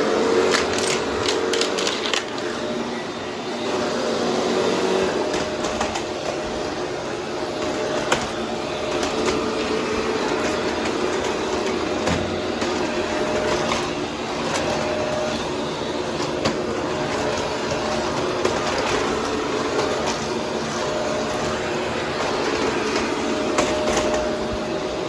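Vacuum cleaner running steadily with a held motor whine, its brushroll picking up debris with scattered crunching clicks.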